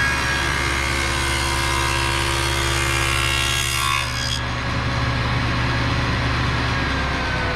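Table saw with its blade tilted at 17 degrees, running at full speed and cutting through a hardwood leg for a tenon cheek for about the first four seconds, then spinning free. Near the end the motor hum stops and the pitch starts to fall as the saw is switched off and winds down.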